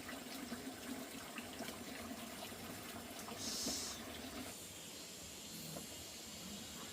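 Water running or pouring, a steady splashing hiss that thins out about four and a half seconds in.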